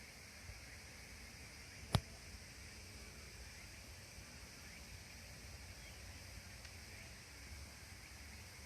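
Faint steady background hiss with one sharp click about two seconds in.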